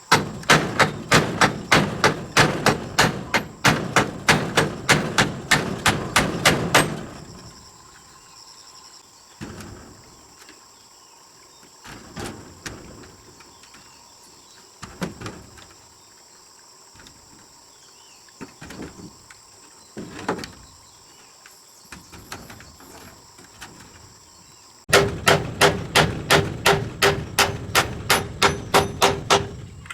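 Hammer blows on metal, fast and even at about four a second, stopping about seven seconds in. Scattered lighter knocks and taps follow, then the rapid hammering starts again near the end with a ringing metallic note, typical of beating out sheet metal.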